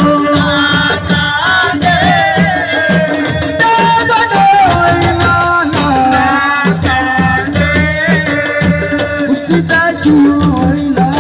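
Live assiko band music: a melodic lead of held and gliding notes over steady, driving percussion and shaker rattles.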